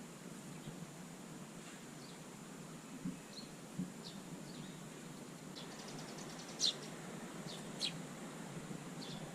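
Eurasian tree sparrows chirping: scattered short, high chirps, a quick run of ticks about six seconds in and two louder chirps near the end, over a faint steady low hum.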